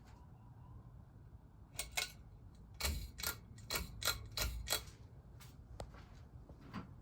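A run of about a dozen sharp mechanical clicks, about four a second, from about two to five seconds in, then a few fainter single clicks, over a faint steady low hum.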